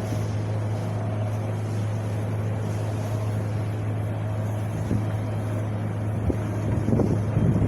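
Wind blowing steadily over a low, constant rumble, with gusts buffeting the microphone near the end.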